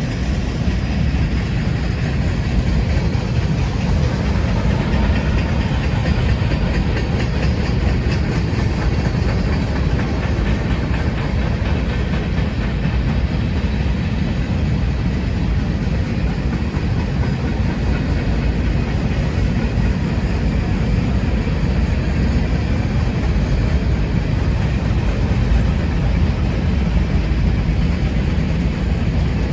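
A Union Pacific train rolling past, its cars making a steady, loud rumble with wheel clickety-clack over the rails.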